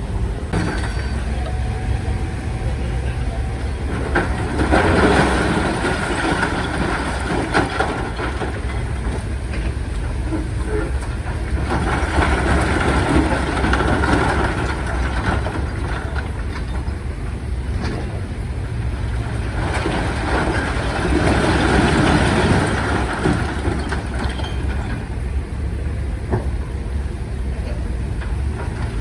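Heavy earthmoving machinery at work: a steady deep diesel rumble with scattered clanks, swelling into louder, noisier stretches three times, about 5, 13 and 21 seconds in.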